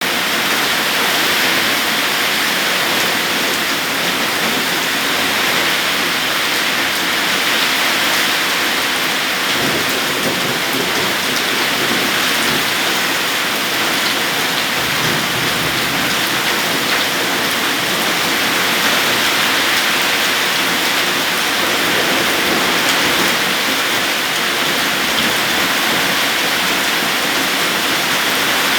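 Heavy rain pouring down steadily, with a few low rumbles of thunder about a third and halfway through.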